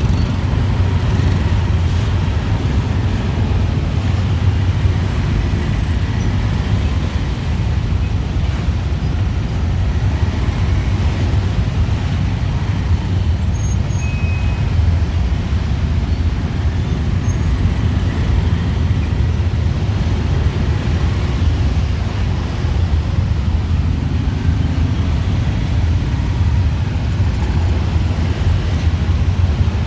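Steady, dense city traffic: motorbikes, cars and tuk-tuks running together in an even engine and tyre noise, with a strong low rumble.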